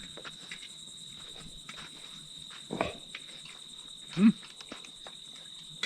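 Insects chirring, a steady high-pitched trill, with two short low voice sounds, about three and four seconds in.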